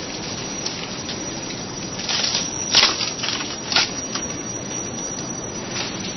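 Steady hiss of heavy tropical rain falling on the forest, with a few sharper hits, the loudest about halfway through.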